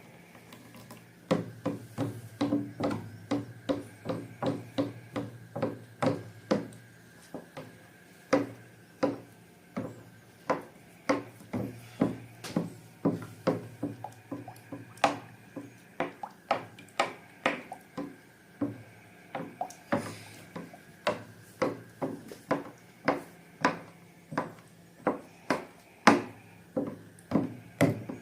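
Slime being worked by hand: a steady run of short, sharp clicks and pops, about two a second.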